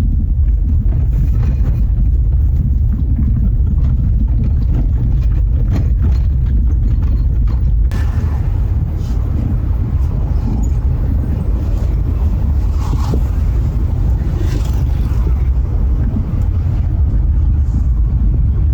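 Vehicle on the move, heard from inside the cabin: a loud, steady low rumble of engine and road noise.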